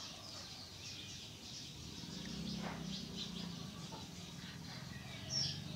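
Small birds chirping repeatedly in short high notes, with a low steady hum coming in about two seconds in.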